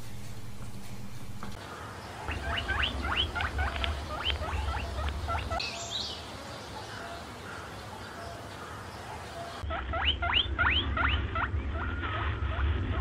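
A small animal's rapid, rising high-pitched squeaks, about four a second, in two bouts over a low rumble.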